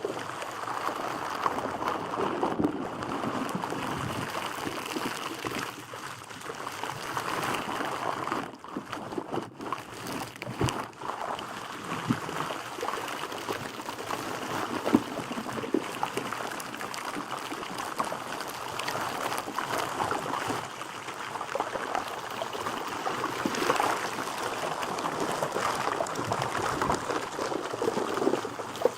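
Water trickling and gurgling in an irregular, continuous stream, dipping briefly about a third of the way in.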